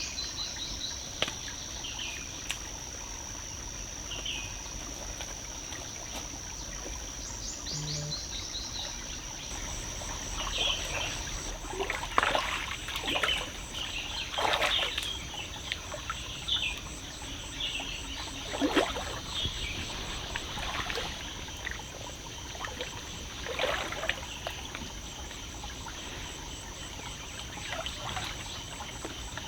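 Forest ambience with a steady high-pitched tone and scattered bird chirps. Through the middle come irregular bursts of water trickling and pouring.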